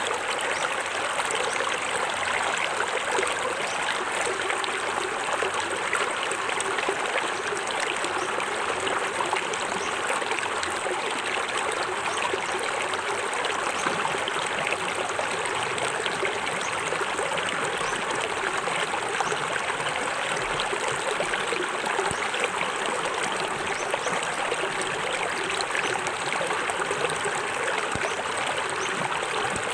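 Small forest waterfall: water splashing and trickling over rocks in a steady, even rush.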